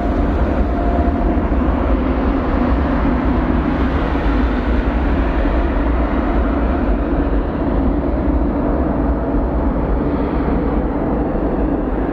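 Jet airliner engines running loud and steady, with a deep rumble and a faint steady whine above it.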